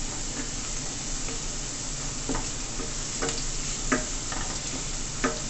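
Curry with garlic, chopped herbs and peppers sizzling steadily in a stainless steel sauté pan while a wooden spoon stirs it. The spoon knocks against the pan four times in the second half.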